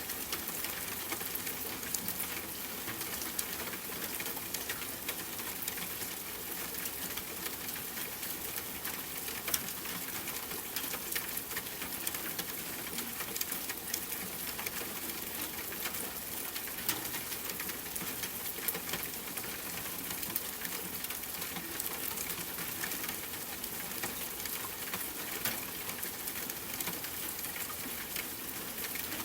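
Steady rainfall mixed with a fireplace fire, frequent small crackles and pops sounding over an even wash of rain.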